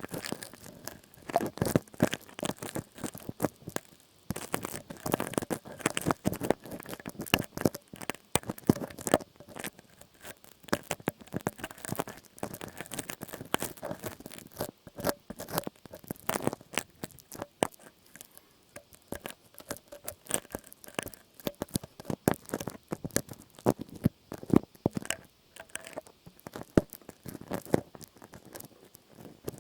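Close-up ASMR trigger sounds: a dense, irregular run of crackling, scratching and tapping clicks right at the microphone.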